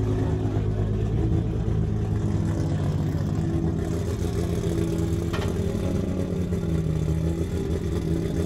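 Drift car engine idling steadily close by, with one sharp click about five seconds in.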